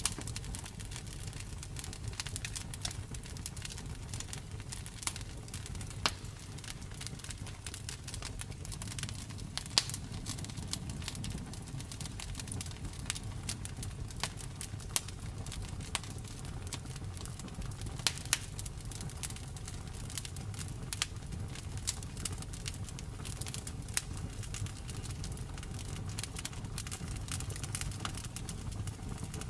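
Wood fire in a fireplace crackling: irregular sharp pops and snaps, a few of them loud, over a steady low rumble.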